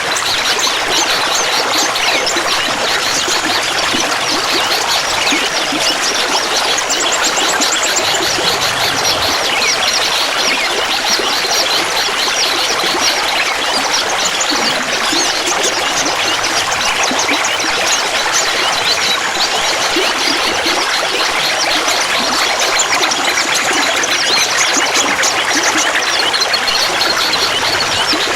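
Clear water trickling and babbling steadily.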